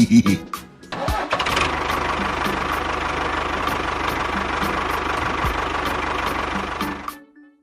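An engine starts about a second in and runs steadily with a fast, even low pulse, then cuts off abruptly near the end.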